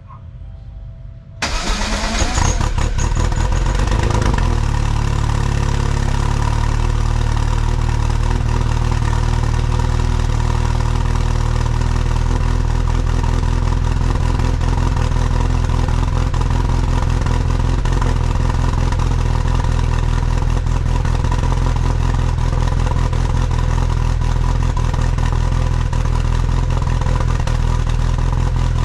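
Lotus Exige S1's Rover K-series four-cylinder engine starting through its exhaust: after a moment of cranking it catches about a second and a half in, flares briefly in revs, then settles into a steady idle.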